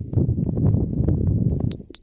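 Strong wind buffeting the microphone, a loud irregular low rumble. Near the end come two short, high electronic beeps.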